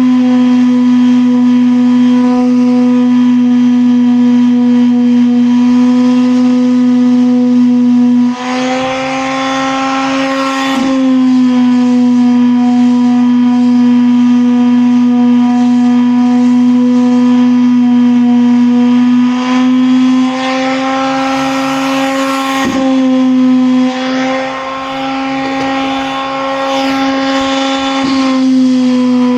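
A motor running continuously with a steady pitched hum, with stretches of rough, scratchy noise added over it about a third of the way in and again near the end.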